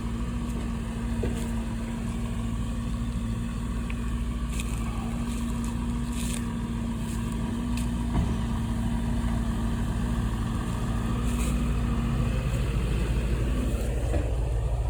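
Engine running steadily at a low hum, with a few short knocks; the hum tone fades out about two seconds before the end.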